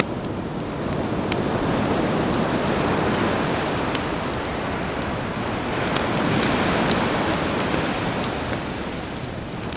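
Sea waves washing in, a swell of surf noise building over the first second or two and easing near the end, with scattered sharp crackles and pops of a campfire on top.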